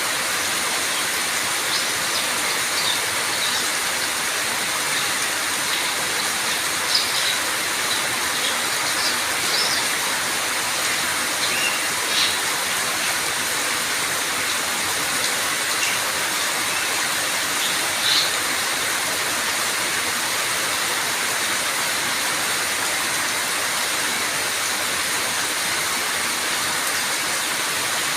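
Steady, heavy rain falling as a constant hiss. A few short high chirps sound over it in the first half.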